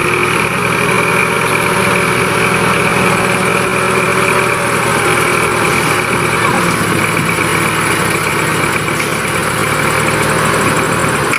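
Dump truck engine running steadily at low revs, close and loud.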